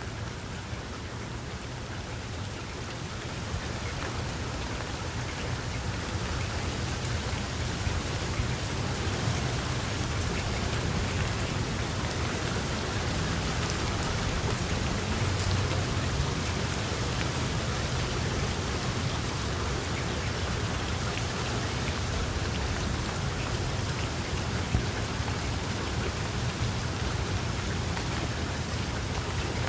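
Steady rain falling, with individual drop hits heard as small ticks over a low, continuous rumble. It grows louder over the first several seconds, then holds steady.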